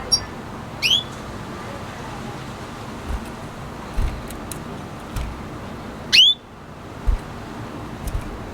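Red siskin giving two loud, rising whistled calls, about a second in and again about six seconds in, with faint high ticks between them. A few brief dull low thumps sound over a steady background hum.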